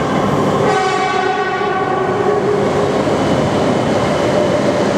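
Tohoku Shinkansen train moving along the station platform with a continuous rumbling run. About a second in, a stack of pitched tones sounds for roughly a second and a half.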